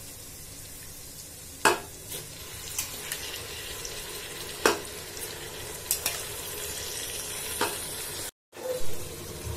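Hot oil sizzling steadily in a pressure cooker as rice and split moong dal are tipped into the fried onions and chillies, with a few sharp taps of a wooden spatula against the pot. The sound cuts out briefly a little before the end.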